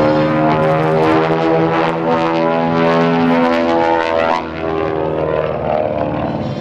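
Beech 18's twin Pratt & Whitney radial engines running hard as the plane flies a low barrel roll past the crowd. The engine note drops in pitch about four seconds in as it goes by.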